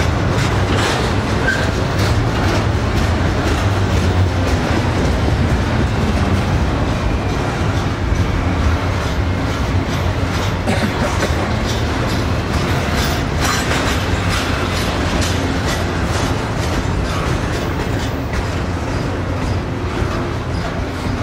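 Double-stack container well cars of a freight train rolling past, a steady rumble of wheels on rail with a stream of clicks over the joints, easing slightly near the end.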